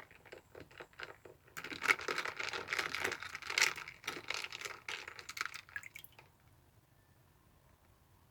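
Crinkling and crackling handling noise: a few separate clicks at first, then about four seconds of dense crinkling that stops about six seconds in.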